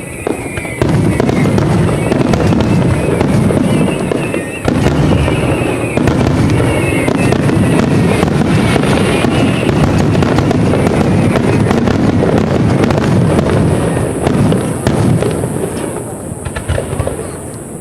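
Fireworks shells bursting in a rapid, continuous barrage of booms and crackles, with a brief lull about four and a half seconds in.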